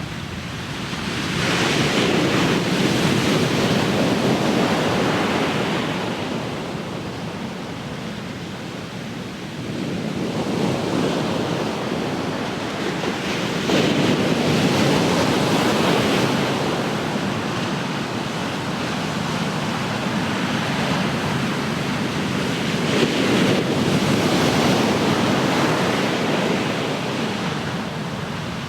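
Ocean surf: waves breaking and washing up the shore, swelling loudly three times about ten seconds apart with quieter hissing lulls between.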